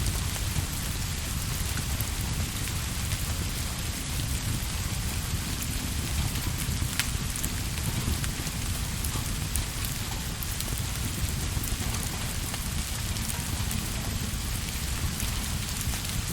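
Steady rain ambience: an even, constant rain noise with a deep low rumble beneath it and a few scattered sharp clicks.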